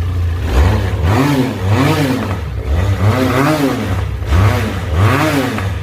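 Benelli TRK 502's parallel-twin engine being revved from idle: it runs steadily for about half a second, then the throttle is blipped about five times, each rev rising and falling in pitch, with one longer rev in the middle.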